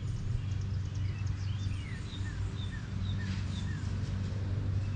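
Small birds chirping in the background, a run of short falling whistles, over a steady low hum.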